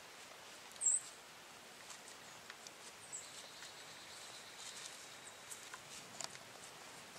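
Quiet woodland ambience: a short, sharp high bird chirp about a second in and a fainter one near three seconds, over scattered faint ticks and leaf rustles.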